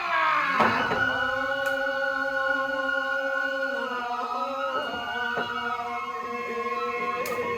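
Several voices chanting the nenbutsu song that accompanies a kenbai dance, holding long notes for several seconds at a time.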